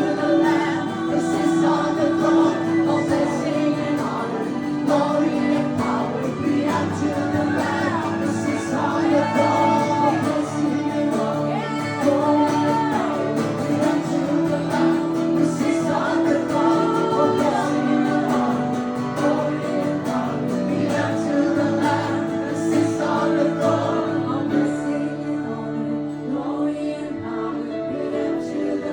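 Live acoustic worship music with singing: sung melody lines over steady held chords, without a break.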